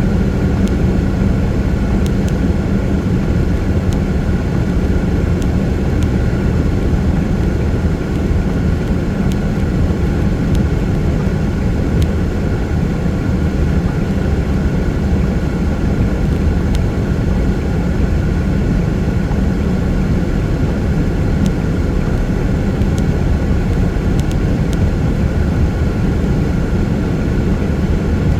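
Steady drone of a car's engine and tyres on a rain-wet freeway, with a few faint clicks.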